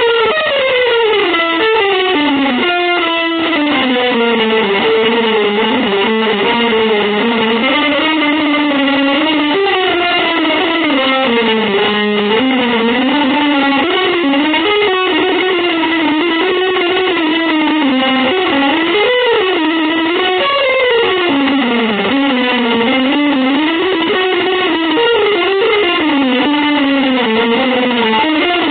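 Electric guitar through effects playing one unbroken, wandering melodic line that glides up and down in pitch without a break.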